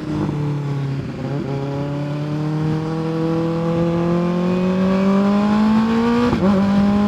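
Kawasaki ZX-6R 636 inline-four sport-bike engine pulling under way. The pitch drops at a gear change about a second in, then climbs steadily as the bike accelerates, and dips briefly again at another upshift near the end.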